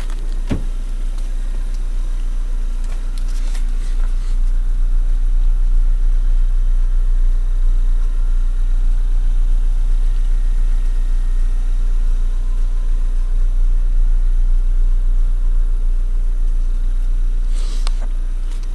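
Opel Astra Bertone's engine idling, a steady low rumble, with a few light clicks near the start and near the end.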